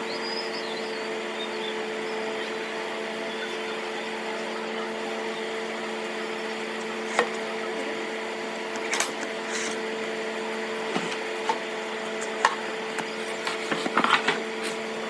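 A steady mechanical hum runs throughout, with scattered sharp wooden knocks and taps that crowd together near the end.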